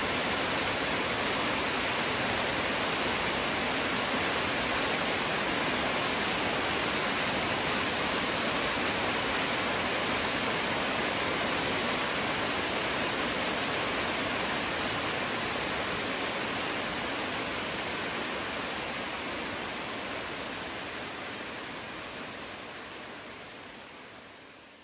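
Steady rush of a waterfall, fading out over the last several seconds.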